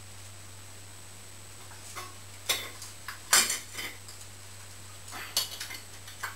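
Metal tools and small parts clinking and knocking as they are handled, in a few short clusters, with the loudest clinks about three and a half seconds in.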